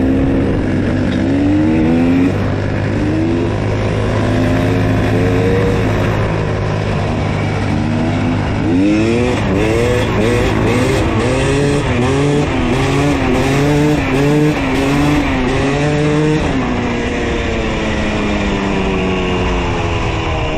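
Dirt bike engine running under changing throttle, its pitch rising and falling in quick repeated pulls, busiest in the middle, then settling to a steadier, lower note near the end.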